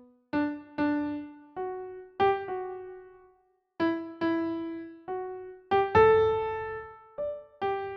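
Slow solo piano melody played one note at a time, each note ringing and fading, with a couple of short pauses.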